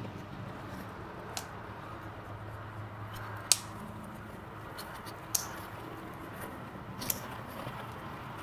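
Farrier's tool cutting or snipping at a horse's hoof: four sharp clicks, spaced about two seconds apart, over a low, steady background.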